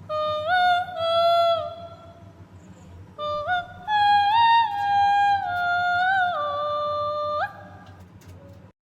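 A short melody of held, voice-like notes stepping up and down in pitch, in two phrases with a pause between them.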